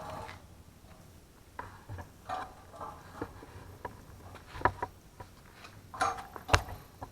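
Scattered light clicks and knocks of small objects being handled, with a sharper knock near the end.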